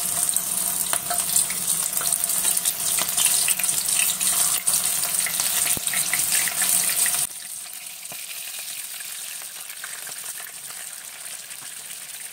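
Hot oil sizzling and crackling as gram-flour-battered prawns fry in a pan, with many small pops as each piece is dropped in. About seven seconds in the sizzle drops suddenly to a quieter, steadier hiss.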